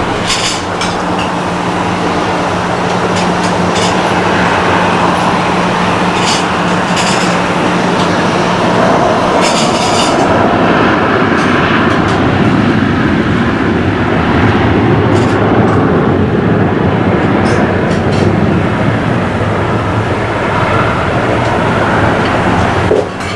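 Loud jet engine noise from a Shanghai Airlines Boeing 737-800's CFM56-7B turbofans on the runway, a steady rushing roar that swells a little towards the middle and drops suddenly near the end.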